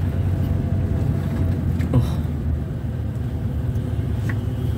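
Steady low rumble of a vehicle driving along a road, with engine and road noise, and a single brief click about two seconds in.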